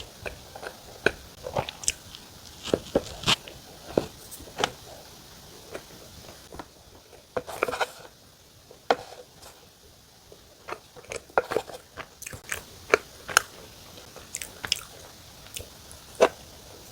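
Close-up eating sounds of a person chewing a mocha cream sandwich bun: irregular sharp mouth clicks and smacks with some bites into the crumbly sweet top crust.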